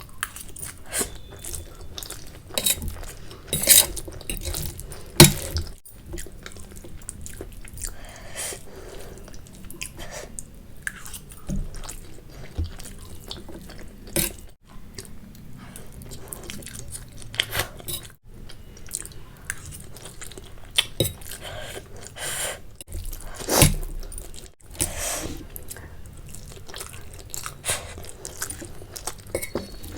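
Wet mouth sounds of someone eating spicy Maggi instant noodles: chewing and smacking, with irregular sharp clicks.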